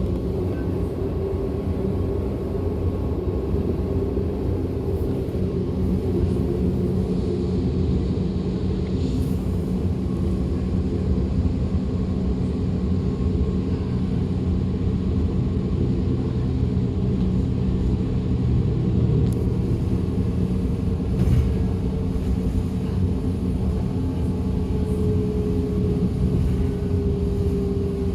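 Running noise of a DB Class 425 electric multiple unit heard from aboard: a steady rumble of wheels on track with several steady motor hum tones, one of them growing more prominent near the end.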